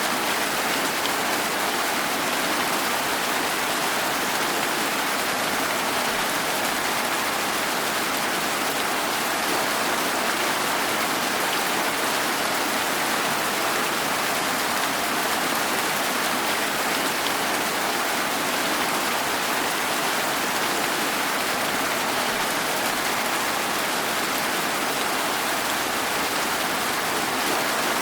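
Steady rain falling, an even hiss of drops with no single distinct impacts.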